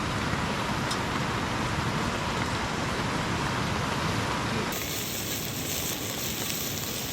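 Steady hiss of heavy rain mixed with bacon sizzling in a cast iron pan over a campfire. The tone of the hiss changes suddenly about two-thirds of the way through.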